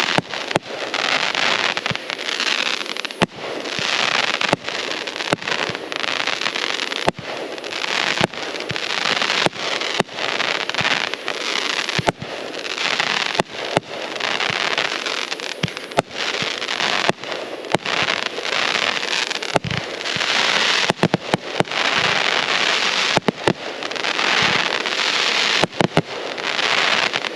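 Consumer fireworks going off in a dense, continuous barrage: steady crackling and hissing, with many sharp bangs at irregular intervals.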